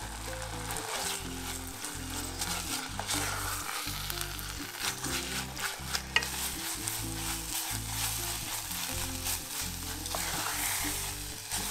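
Shredded chicken in tomato sauce sizzling in a pot while a spatula stirs and scrapes through it, with many small scraping clicks over a steady hiss. The sauce is being cooked down until its moisture is gone.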